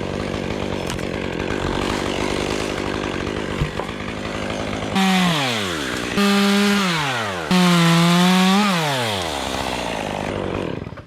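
Chainsaw cutting through cypress wood, then revved hard three times in quick succession, its pitch falling away after each burst before winding down.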